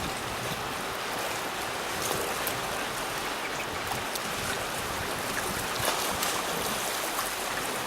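Steady wash of sea water, small waves lapping and splashing, with a few faint ticks.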